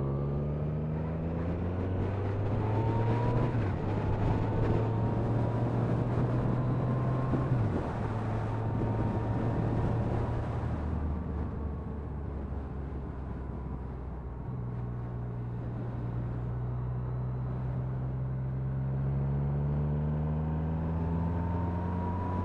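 Motorcycle engine heard from the rider's helmet, climbing in pitch as it accelerates through the gears with two brief breaks at the shifts, over wind noise. It eases to a steadier, quieter cruise about halfway through, then climbs in pitch again toward the end.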